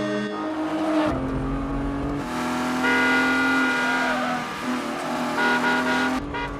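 Car engines running hard at high revs in a chase, their note jumping abruptly in pitch several times.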